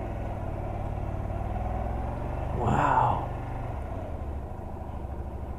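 Honda Varadero 125's small V-twin engine running at low speed, a steady low drone.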